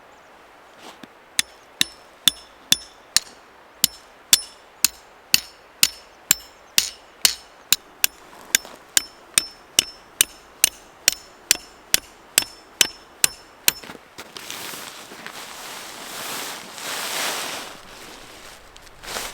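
A hammer striking metal in a steady rhythm: some two dozen ringing blows, about two a second. Then the blows stop and a rushing noise swells and fades over a few seconds.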